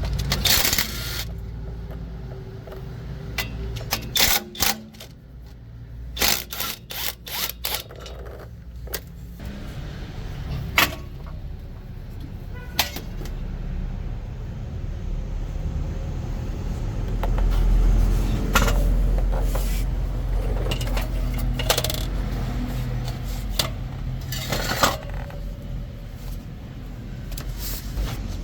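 Metal tools clinking and knocking against steel parts, with a quick run of clicks about six seconds in, over a low rumble that swells past the middle.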